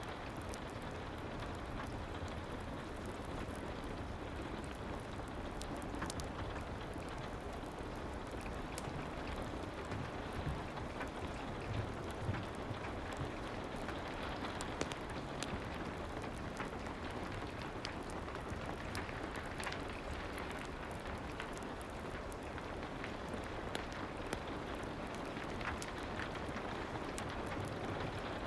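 Soft, steady rain with many scattered small clicks and ticks.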